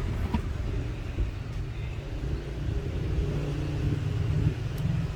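Steady low rumble of background noise, like road traffic, with a faint click about half a second in and another near the end.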